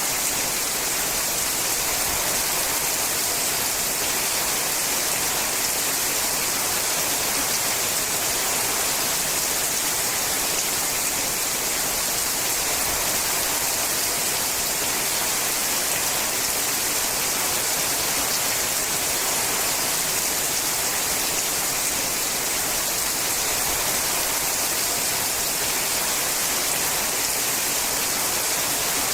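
Steady rain falling on a sheet-metal roof: a dense, even hiss of drops with no letup or change.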